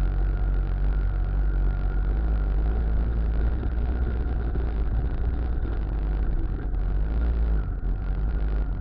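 Muravey motor tricycle's engine running steadily, a continuous hum with heavy low rumble.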